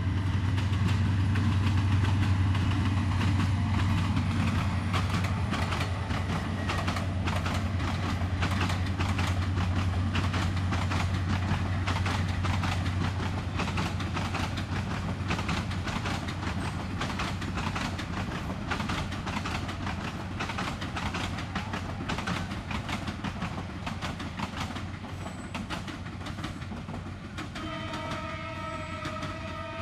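Diesel-hauled passenger train passing: the locomotive's low engine hum gives way to the rapid clatter of the coaches' wheels over rail joints, slowly fading. A train horn sounds near the end.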